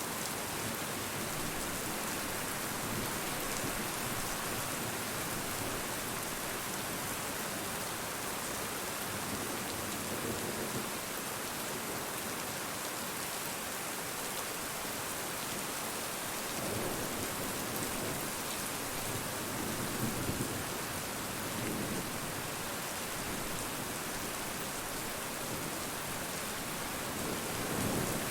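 Steady rain falling and pattering on surfaces, an even hiss, with a few brief deeper swells in the sound near the middle and again near the end.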